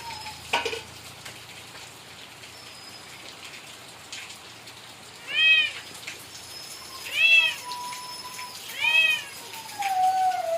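A cat meowing three times, a couple of seconds apart, each meow rising then falling in pitch.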